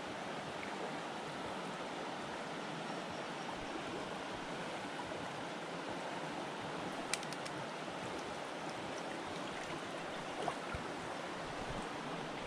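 River water flowing steadily, an even rushing hiss, with a sharp click about seven seconds in and a softer knock near ten and a half seconds.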